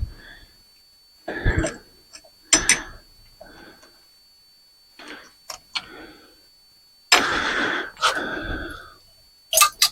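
Ceiling-fan parts being handled during dismantling for scrap: a string of short knocks and clicks, then a longer rasping mechanical sound about seven seconds in that lasts nearly two seconds.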